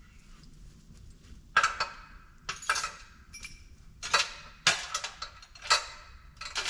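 About seven sharp, ringing clanks of hard objects knocking together, spread irregularly over several seconds.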